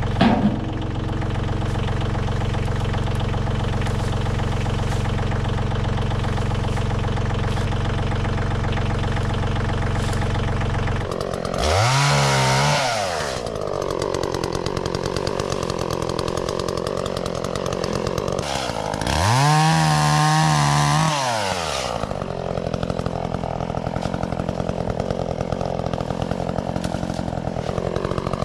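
Echo CS-400 two-stroke chainsaw running at a steady idle, revved up to full speed twice for about two seconds each, about 11 seconds and 19 seconds in, then dropping back to idle.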